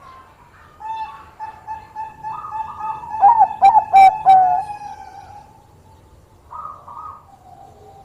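Zebra dove (Bangkok-bred perkutut) cooing: a run of short notes that builds to a few loud, quick notes about halfway through, followed by a couple of softer notes near the end.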